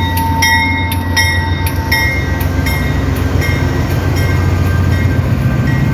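Freight train rolling past with a steady low rumble. About twice a second the wheels give a sharp metallic click with a ringing note, fading after the first few seconds.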